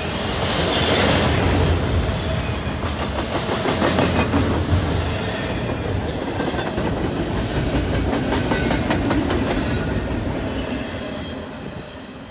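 Double-stack intermodal container train rolling past: steady rumble of steel wheels on the rail with a run of clicks over the rail joints, fading away near the end as the last well car passes.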